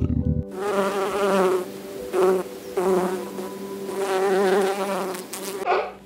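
A flying insect buzzing continuously, its pitch wavering and its loudness swelling and fading. Near the end the buzz stops and a sea lion gives a short bark.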